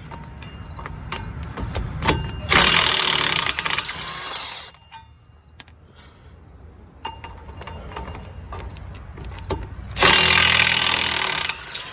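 Cordless DeWalt impact wrench hammering out the 13 mm rear wheel-hub mounting bolts, in two bursts of about two seconds each, with quieter clicks and tool handling between them.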